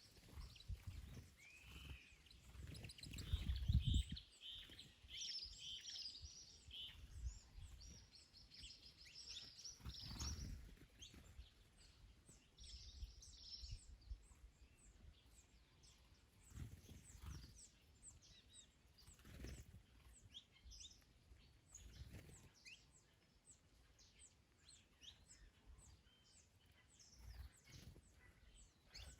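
Small birds singing, with fast trilled phrases in the first half and scattered short chirps later. Under them, gusts of wind rumble on the microphone, the strongest about three to four seconds in.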